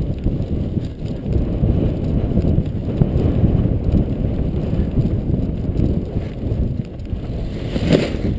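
Strong wind buffeting the microphone, a low rumble that rises and falls unevenly, with a brief sharper rush near the end.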